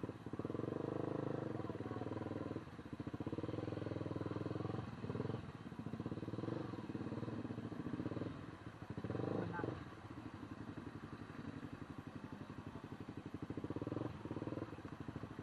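Small motorcycle engine running under way, its note rising and falling with the throttle and easing off after about ten seconds.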